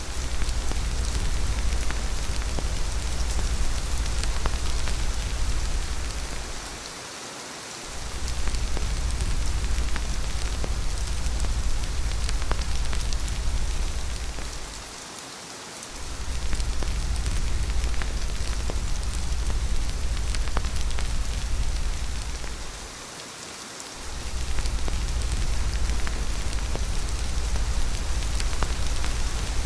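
Steady rain hissing, with scattered drop ticks. A deep low rumble underneath fades out briefly three times, about every eight seconds.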